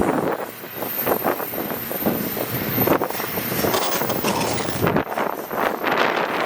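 Intermodal freight train cars rolling past, an uneven rattle and clatter of wheels and car bodies.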